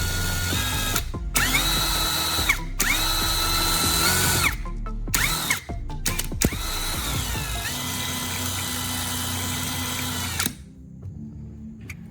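Small 775 DC motor running a homemade power tool in several bursts. Its whine rises as it spins up and falls as it winds down each time, and the last run cuts off about ten and a half seconds in.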